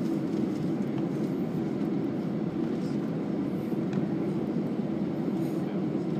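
Steady, unbroken rumble inside a moving vehicle, with the noise sitting low and a few faint ticks over it.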